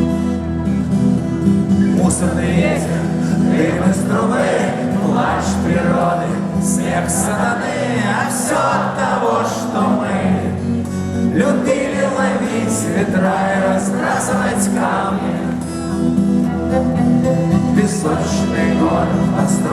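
Rock band playing an instrumental passage: a wavering melody over guitar and a steady bass line.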